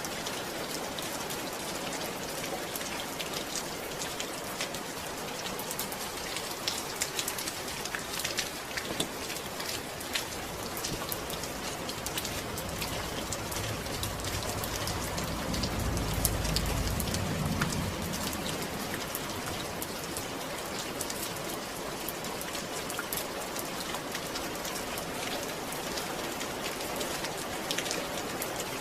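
Steady rain falling, a dense hiss with many small drop ticks. About halfway through, a low rumble swells for a few seconds and fades again.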